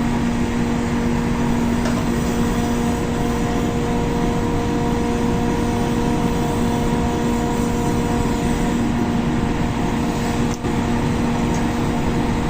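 Steady roar of a gas brazing torch flame heating copper pipe, over a steady mechanical hum, with one brief dip about ten and a half seconds in.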